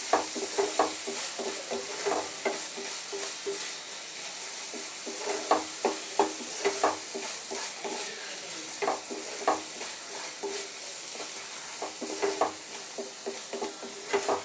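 Spice paste sizzling in hot mustard oil in a kadai, with a spatula scraping and knocking against the pan in short bursts as the masala is stirred and sautéed.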